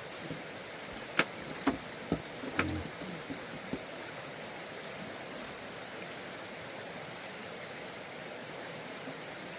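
A steady rushing noise, like flowing water, with a handful of sharp knocks or clicks in the first few seconds.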